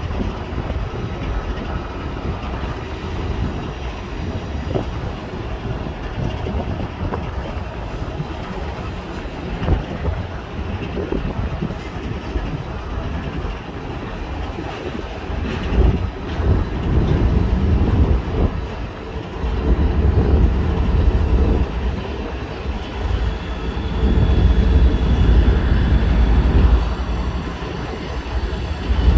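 CSX freight train rolling past, its cars rumbling and wheels clacking over the rail joints with scattered knocks. The rumble grows louder and deeper in the second half.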